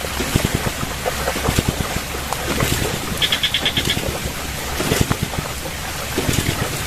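Water sloshing and splashing with irregular knocks, and wind on the microphone. A short rapid high trill sounds about three seconds in.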